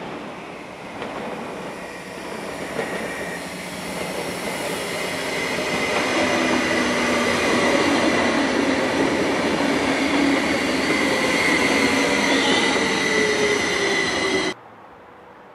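SBB double-deck Zurich S-Bahn train approaching and running close past on the tracks, growing louder as it comes, with a steady high wheel squeal and a lower tone that slowly drops in pitch. The sound cuts off abruptly near the end.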